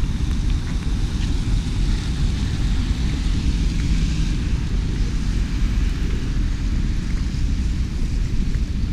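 Steady rain hiss over a heavy low rumble, without pause.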